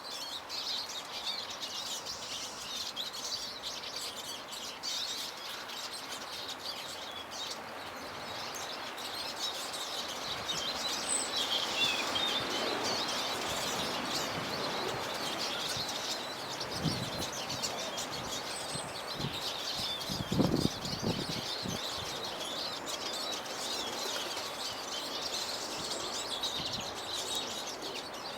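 Small garden birds, a mix of finches and tits, chirping and calling over one another at a feeder. A few short low thumps come about two-thirds of the way through.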